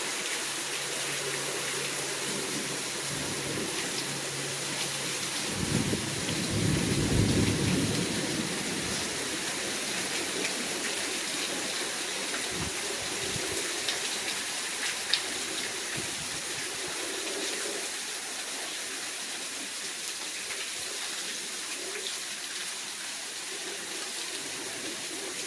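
Heavy rain falling steadily in a thunderstorm, with a low rumble of thunder rolling in about six seconds in and fading after a couple of seconds.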